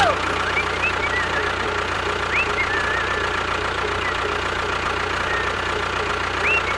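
Steady engine-like running with a low hum and an even rhythm, with a few short high chirps over it.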